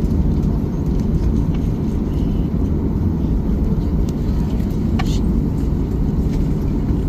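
Steady low rumble of a jet airliner's engines and airflow heard inside the passenger cabin, with a faint steady hum underneath.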